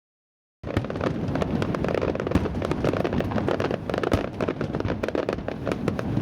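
Aerial fireworks going off in a rapid barrage of many overlapping bangs and crackles, starting abruptly about half a second in.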